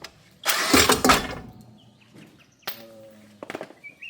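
A tractor engine cranking briefly: a loud burst lasting about a second that dies away, then a shorter spell of engine noise near three seconds in.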